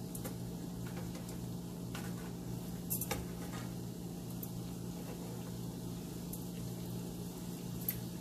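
White bread triangles shallow-frying in hot ghee in a frying pan: a steady quiet sizzle with scattered crackles and ticks, the sharpest about three seconds in and again near the end.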